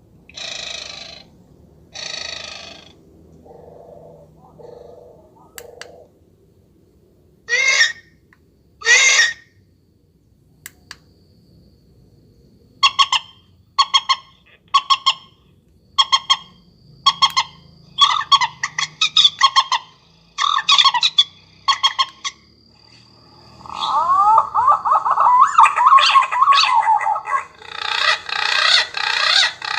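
Electronic bird caller playing recorded bird calls through its speaker, moving through several different calls: a few harsh calls, then low pulsed notes, clear notes, runs of quick chirps, and a dense burst of rapid rising notes near the end.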